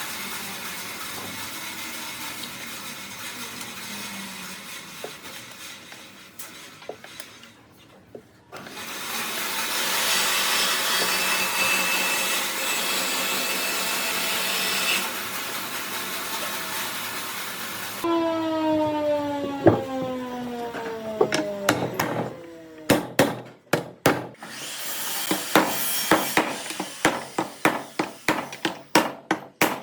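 Woodworking tool noise on wood: steady sawing or sanding noise, louder after about eight seconds. Near the middle comes a whine falling in pitch, like a power tool spinning down, then a run of sharp knocks on wood to the end.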